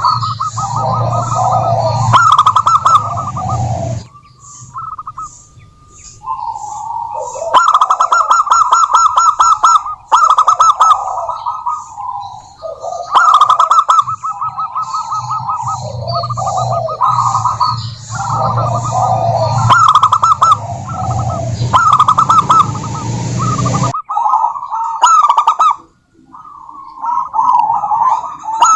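Zebra doves calling, the female's rapid, staccato rolling coos repeated in phrases of a few seconds with short pauses between. Finer, higher chirping runs beneath, and about 24 s in the recording cuts to a different take.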